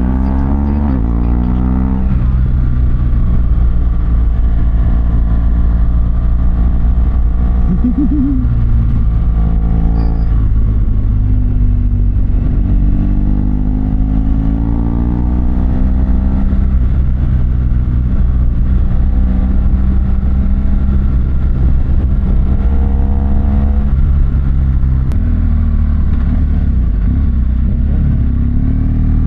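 BMW R1200GSA's boxer twin engine pulling the motorcycle along the road. The engine note rises several times and drops back with each gear change or roll-off.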